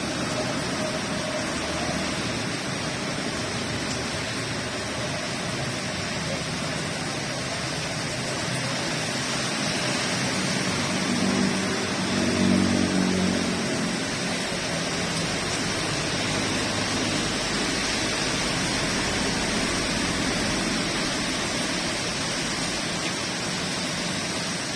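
Steady rain falling hard, an even rushing hiss. A low hum swells and fades briefly about halfway through.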